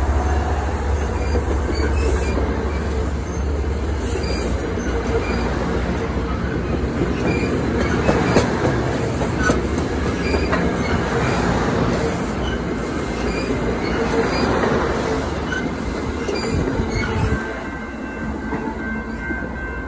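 MBTA commuter train rolling slowly past at close range: the HSP46 diesel locomotive's low rumble at first, then the coaches' steel wheels rolling and clattering over the rails. The sound gets quieter near the end as the cab car goes by.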